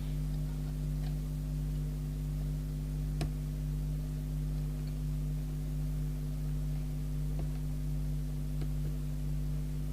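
Steady workshop hum made of several fixed tones, with a sharp click about three seconds in and a couple of faint ticks later, from a tool being worked into a channel selector switch.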